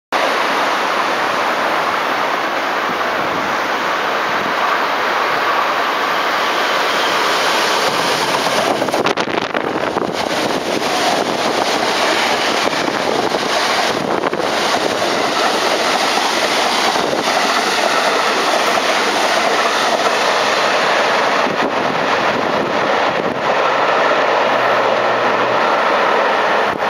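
Electric train running on the rails: a steady, loud rush of wheel and track noise with a few faint clicks.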